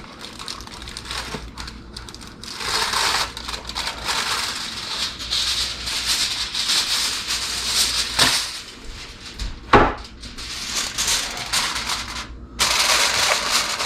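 Aluminum foil crinkling as it is pulled over a baking pan and pressed down around the edges. The irregular crackling starts a couple of seconds in and stops suddenly near the end, with a single knock along the way.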